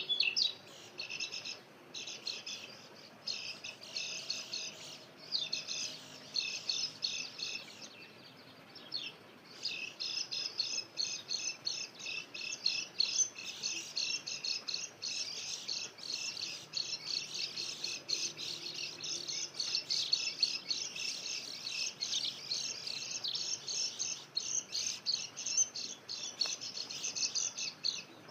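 White-eyes (pleci) twittering in rapid, high-pitched chirping runs. The runs come in patches with short gaps over the first nine seconds or so, then turn into an almost unbroken twitter.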